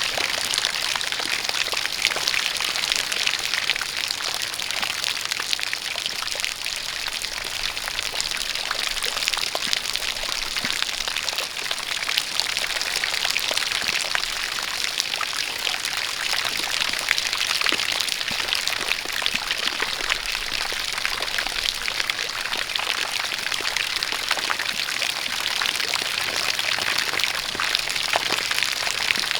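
Steady rain together with a jet of water pouring: a constant hiss with a dense patter of drops, no change in level throughout.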